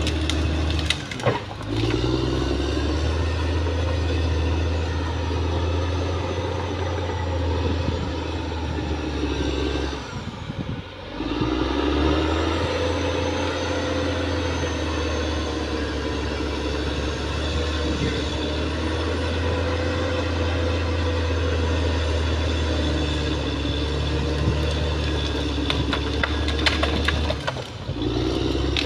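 Caterpillar D6R XL bulldozer's diesel engine running steadily under load, with clanking from the tracks. The engine note drops briefly about a second in, again for about a second midway, and once more near the end, then picks back up.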